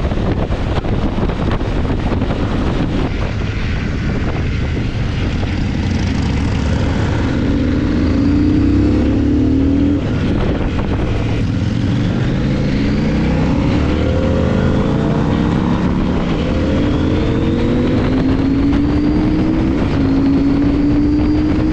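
CFMOTO IBEX 800 T's parallel-twin engine accelerating through the gears. The pitch climbs in several sweeps, each dropping back at a shift.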